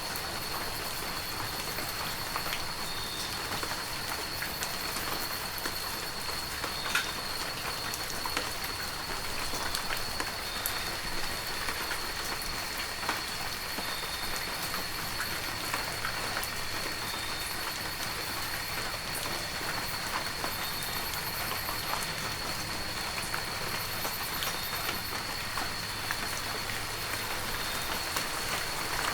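Heavy rain falling steadily: a continuous hiss with scattered individual drop taps. A thin, steady high-pitched tone runs underneath.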